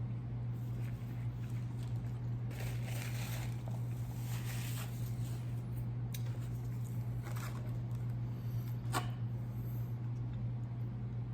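Paper food packaging rustling and crinkling as it is handled, in two stretches about a third of the way in and past the middle, with a sharp click near the end, all over a steady low hum.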